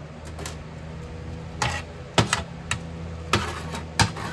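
A series of sharp, irregular knocks and clacks, about eight in all, as hard objects are handled and set down, over a steady low hum.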